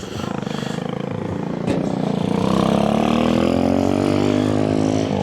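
A car engine running close by. Its pitch climbs for a couple of seconds and then eases back down.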